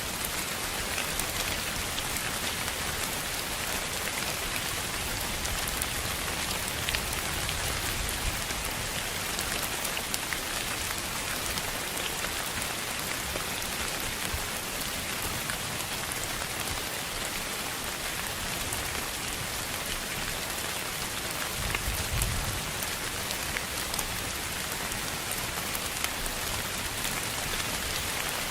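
Steady sleep-noise hiss that sounds like rain falling on a surface, flecked with fine drop-like ticks, its weight in the upper range rather than the deep low end. A brief low rumble about 22 seconds in.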